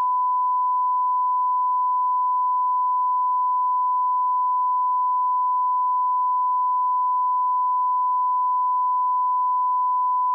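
A steady, pure test tone near 1 kHz, the −18 dB line-up reference tone used to set and check audio levels, held at constant level and pitch.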